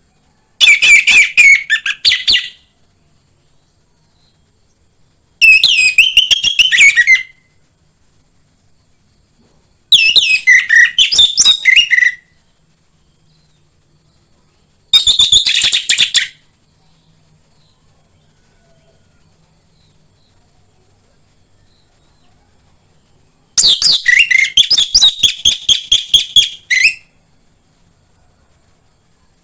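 Orange-headed thrush (anis merah) singing: five loud phrases of rapid, varied whistled notes, each one and a half to three and a half seconds long, with pauses of several seconds between them.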